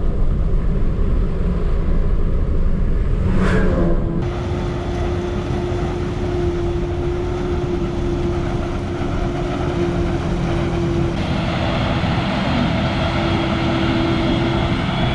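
Heavy farm machinery running steadily at harvest. There is a brief rising sweep at about three and a half seconds, then a steady droning tone from about four seconds in.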